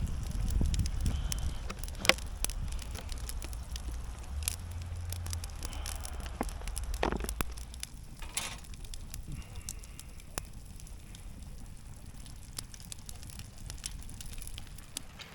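Wood fire crackling, with scattered sharp pops and a louder pop about two seconds in.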